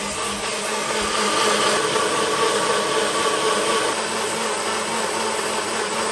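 Countertop blender motor running steadily at speed, pureeing roasted peppers into a pasta sauce.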